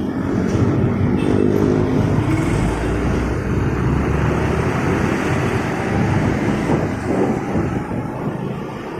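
Motorcycle engine and road noise heard while riding through dense city traffic, with an engine note that stands out clearly in the first few seconds and then sinks back into the steady traffic rush.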